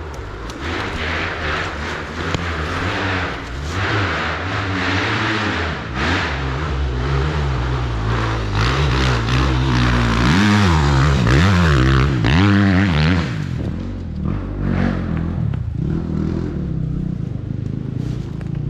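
Dirt bike engines at an enduro/motocross event, revving up and down again and again, loudest about two-thirds of the way through.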